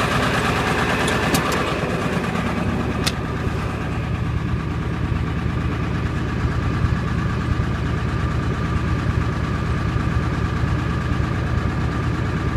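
Ford 7.3 Powerstroke turbo-diesel V8 idling steadily at cold-engine temperature, just after a 32-degree start without the block heater. A couple of sharp clicks come in the first few seconds.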